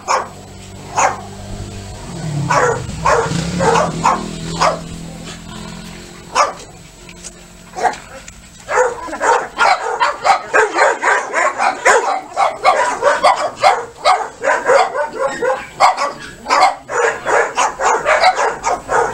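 Dog barking: a few separate barks at first, then quick, nearly continuous barking from about nine seconds in.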